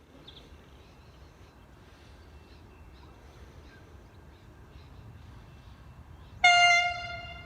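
Horn of a V/Line VLocity diesel railcar sounding one short, loud blast near the end, after a faint low rumble.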